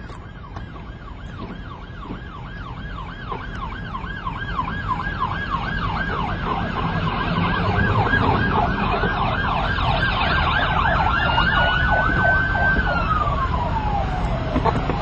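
Police car sirens in rapid yelp mode, growing louder as the pursuit approaches, over vehicle engine rumble. Near the end one siren holds a steady tone and then falls in pitch.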